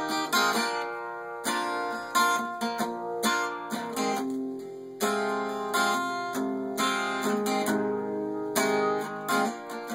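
Acoustic guitar played solo: strummed and picked chords ringing out in the song's introduction.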